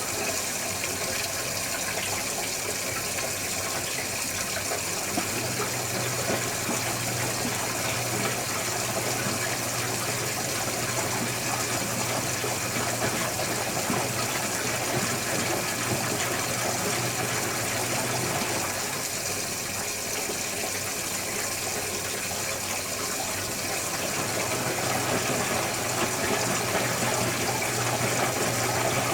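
Electrolux Wascator W355H commercial washing machine running with water rushing and gushing in the drum. A low hum stops for a few seconds twice, about a second in and about two-thirds of the way through.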